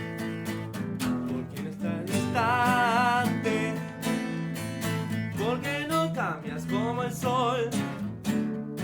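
A band playing a song live: strummed acoustic guitar chords under a sung melody, with a long wavering held note about two seconds in.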